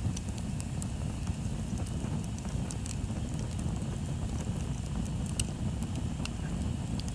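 Bonfire crackling, with scattered sharp pops and snaps, over a steady low rumble of wind on the microphone.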